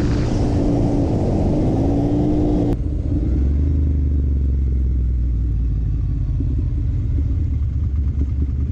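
Motorcycle engine running, its pitch gliding up and down, then cut off abruptly about three seconds in by a steadier, lower engine drone.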